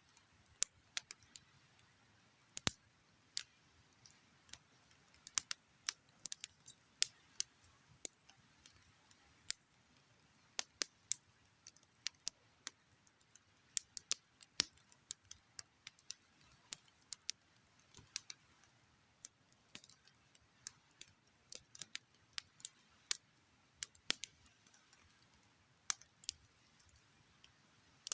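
Wood campfire crackling: irregular sharp snaps and pops, several a second, over an otherwise quiet background.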